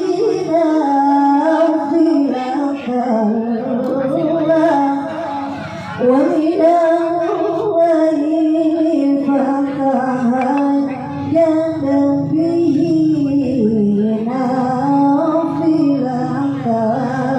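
A woman's voice in melodic Quran recitation (tilawah): long, ornamented notes that slide up and down in pitch, with a short breath about six seconds in.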